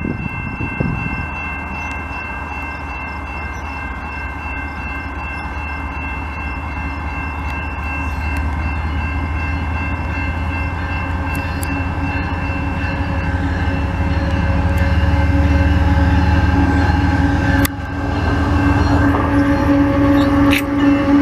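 Level-crossing bells ring steadily as a Canadian Pacific diesel freight train approaches under a heavy load, its locomotive engines a low rumble that grows louder as the train nears. Near the end the locomotives are close, with a steady drone from the engines.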